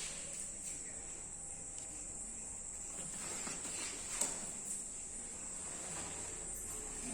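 Insects chirring in one steady high-pitched drone, with a few faint knocks and clicks.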